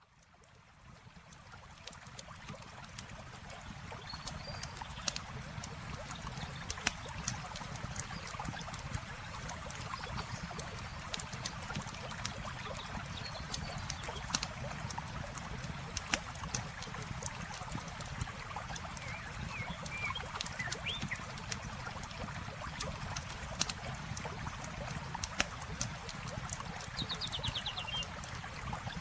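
Campfire crackling, with scattered sharp pops over the steady rush of flowing water. A few faint chirps come through, and the sound fades in over the first few seconds.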